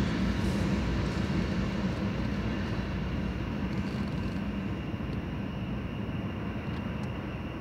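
Freight train of tank cars rolling through a grade crossing: a steady rumble of wheels on rail that fades gradually as the end of the train goes by.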